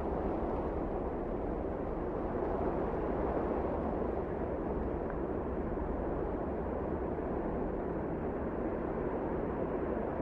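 Steady wind blowing, an even low rushing noise that holds without gusts or lulls.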